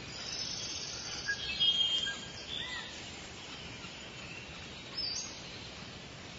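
Birds chirping: short high calls and whistles over a faint steady hiss, busiest in the first half and again briefly near the end.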